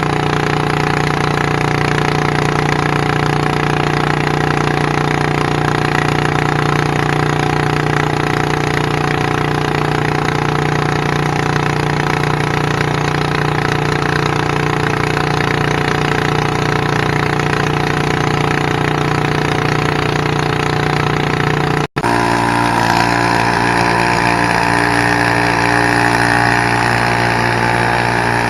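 Small garden-tractor engine running hard at a steady pitch. About 22 seconds in the sound cuts out for an instant and a different engine note follows, also steady.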